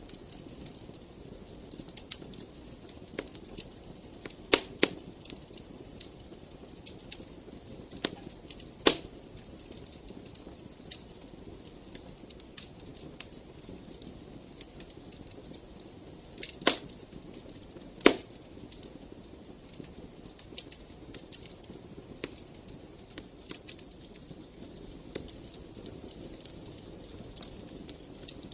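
Wood fire in a fireplace crackling: a steady low rush of flames with a constant scatter of small snaps and a few louder pops.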